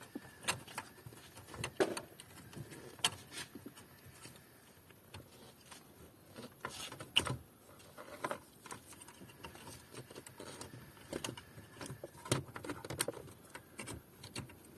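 Irregular small clicks, taps and rattles of hands handling car-radio wiring connectors and plastic parts, with a sharper click about seven seconds in.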